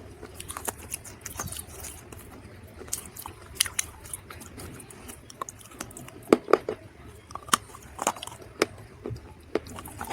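Dried mud being bitten and chewed close to the microphone: irregular sharp crunches, the loudest coming in a quick cluster a little past the middle.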